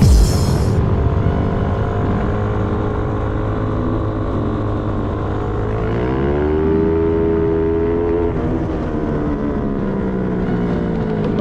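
450cc motorcycle engine of a racing kart running on track; its pitch climbs sharply about six seconds in as it accelerates, holds for about two seconds, then drops back.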